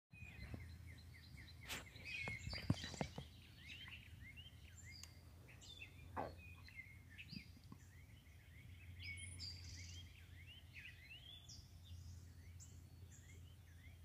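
Several small birds chirping and singing, with many short, quick up-sweeping chirps throughout. A steady low hum runs underneath, and a few sharp knocks come in the first few seconds, the loudest about three seconds in.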